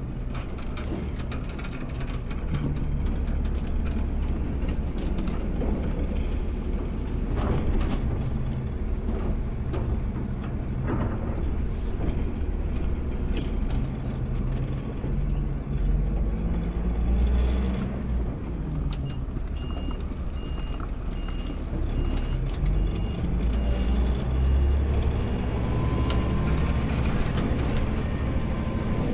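Automated side-load garbage truck running, its diesel engine rising and falling in pitch as it works, with scattered mechanical clunks. A regular series of short high beeps starts about two-thirds of the way in.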